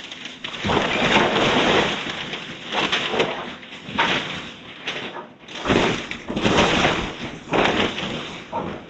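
House demolition noise: timber and debris crunching, breaking and crashing in repeated irregular bursts.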